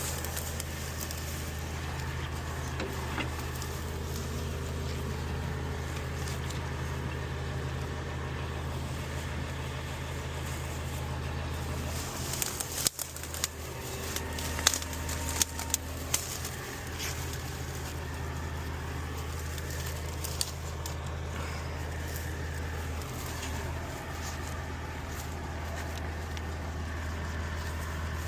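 A heavy engine idling steadily, a low even drone, with a cluster of sharp knocks and clanks about halfway through.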